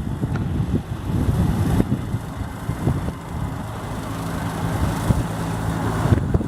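Kubota M6040SU tractor's diesel engine running steadily, with a low rumble and a steady hum through the middle.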